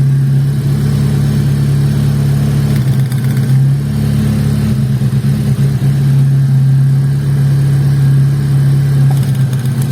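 Car engine idling steadily, most likely the Chevrolet Vectra's, with an even hum.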